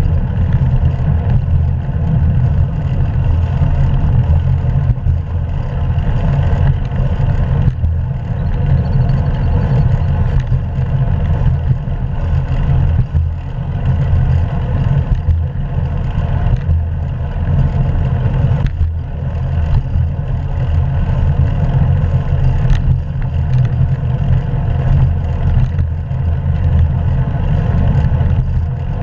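Steady, loud rumble of wind buffeting an action camera's microphone during a bicycle ride, mixed with road and tyre noise, with a few faint knocks from bumps.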